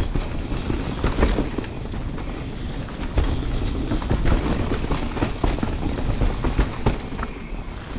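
Canyon Spectral 29 CFR full-suspension mountain bike clattering down a rough singletrack: a steady low rumble of tyres on dirt, broken by many irregular sharp knocks and rattles from roots and rocks hitting the wheels, chain and frame.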